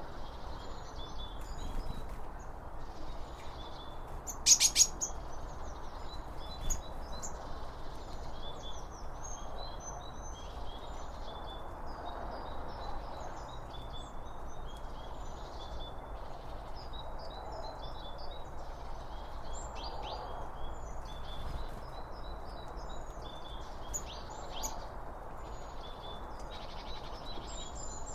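Songbirds chirping and singing in many short, high calls over a steady low rushing background, with one louder, brief sharp burst about four and a half seconds in.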